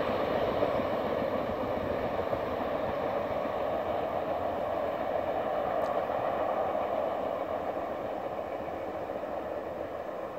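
A train rolling past on the rails, a steady clatter and rumble of wheels that slowly fades as it moves on.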